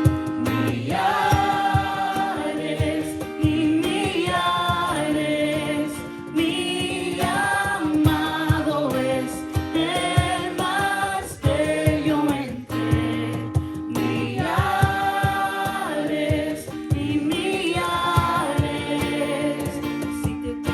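A group of voices singing a slow worship song together, over a held accompanying note.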